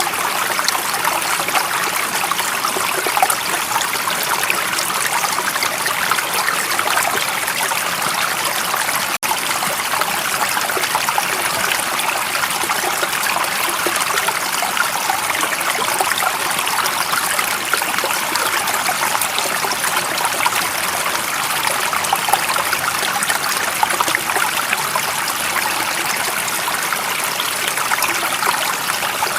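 Stream water running and trickling in a steady, even rush, with a brief dip about nine seconds in.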